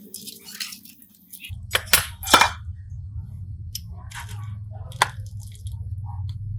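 Sharp clicks and clinks of small tools and parts being handled, the loudest about two seconds in, over a low steady hum that starts about a second and a half in.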